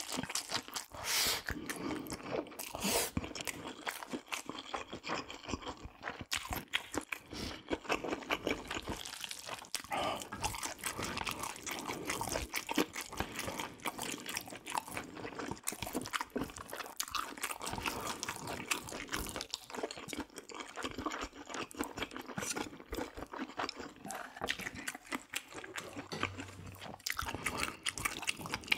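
A person eating close to the microphone: continuous chewing and biting, with a dense run of crunching, clicking mouth sounds.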